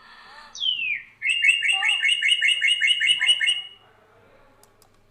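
Bird-call sound effect: one whistle gliding down in pitch, then a quick run of chirps, about four a second, that stops a little before the end.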